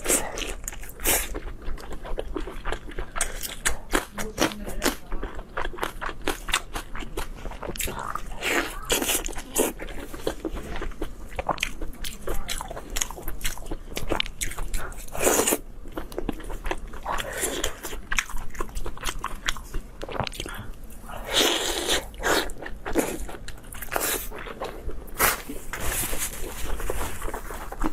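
Close-miked eating: a person biting and chewing food with many wet smacks and crunchy clicks.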